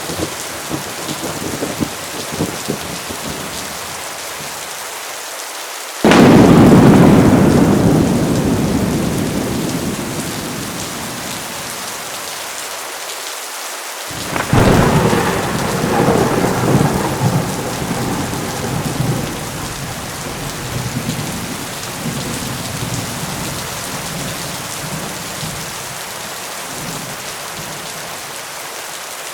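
Heavy rain falling steadily with two thunderclaps. The first breaks suddenly about six seconds in and rumbles away over several seconds. The second breaks about halfway through and rolls on in uneven swells before fading back into the rain.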